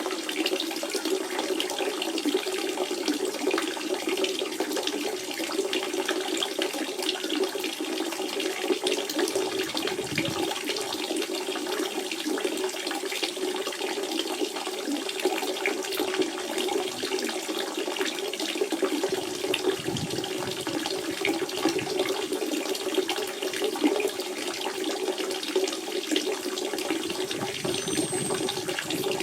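Natural spring water flowing steadily, a continuous splashing burble with small irregular gurgles.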